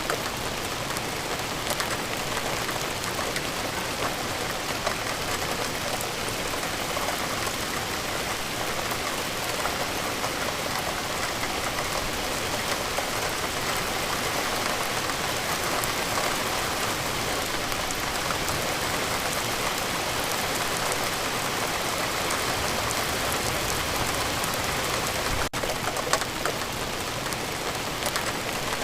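Rain falling steadily: a continuous even hiss with many small drop ticks scattered through it.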